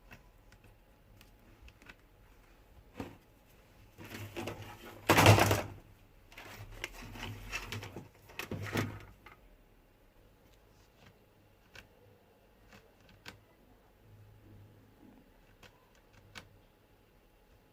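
Bench handling noises from laptop repair work: scattered small clicks and taps, with a few louder rustling, scraping bursts, the loudest about five seconds in.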